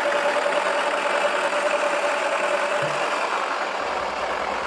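Wacky Washer toy washing machine running, its small motor spinning the drum with toy balls inside: a steady machine noise with a faint whine that fades about three seconds in.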